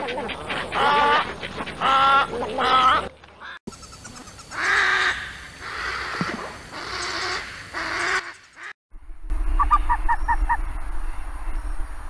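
Three wading-bird recordings one after another. First snowy egrets give three stuttering, pitched croaks; then a little blue heron gives repeated hoarse, noisy croaks; about nine seconds in, bare-faced ibises give a quick run of about six short notes over a steady low rumble.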